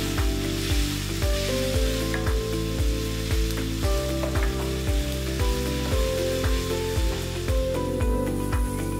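Diced Spam and kimchi sizzling in a frying pan as a wooden spoon stirs and scrapes them, under background music with a steady beat.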